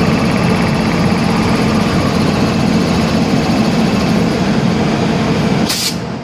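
Steady running noise of a vehicle, with a low hum and a few faint whining tones over it. A short hiss comes near the end, and the noise drops a little after it.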